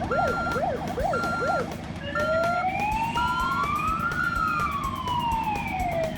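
Cartoon emergency-vehicle siren: a fast up-and-down yelp about three times a second, which changes about two seconds in to a slow wail that rises for about two seconds and falls back. A short steady beep repeats about once a second during the first three and a half seconds.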